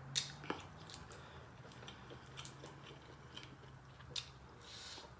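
Close-miked chewing of food, with scattered small wet clicks and crackles from the mouth, and a short breathy sound near the end, over a faint steady low hum.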